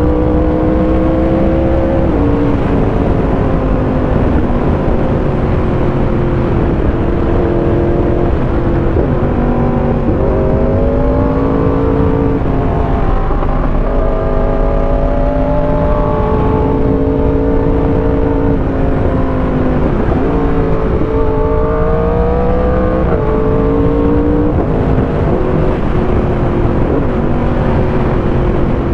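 Motorcycle engine running under load, its pitch climbing slowly and then dropping again many times as the throttle is rolled on and off and gears are changed through a run of bends, over a steady low rush.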